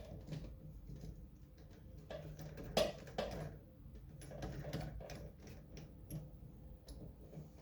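Light irregular clicks and scrapes of a metal cartridge puller tool being fitted and turned onto a Moen shower valve cartridge, with one louder knock about three seconds in.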